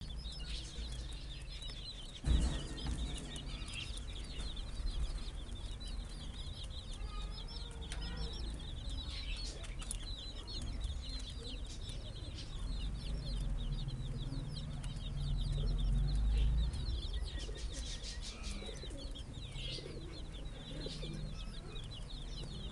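A flock of baby chicks peeping continuously, many short high falling chirps overlapping. A single sharp thump about two seconds in, over a low rumble.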